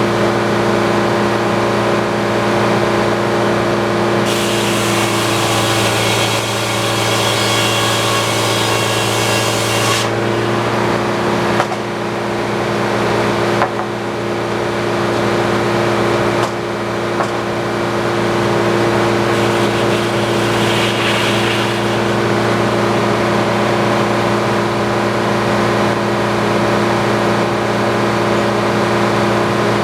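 Antique sawmill running at a steady pitch, its power unit and spinning blade humming evenly. From about 4 to 10 seconds in, a harsh high hiss rides on top as the blade cuts wood, with a few sharp knocks a little later and a fainter stretch of cutting near the middle.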